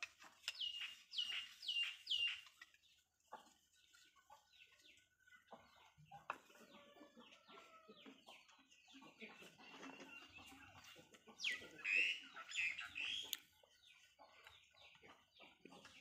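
Birds calling: three quick falling high calls about half a second in, then a louder flurry of calls about twelve seconds in, over faint scattered clicks.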